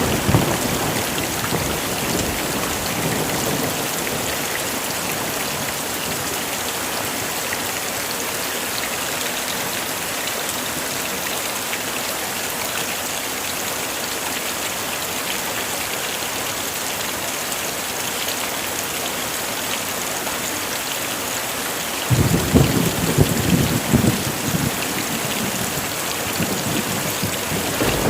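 Heavy rain falling steadily in an even hiss. A low thunder rumble fades out over the first few seconds, and another rumble of thunder breaks in suddenly about three-quarters of the way through, the loudest part, lasting a few seconds.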